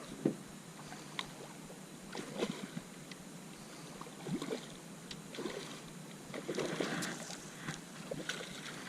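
Irregular small splashes and knocks on and around a small jon boat, with scattered sharp clicks over a low steady wash of water.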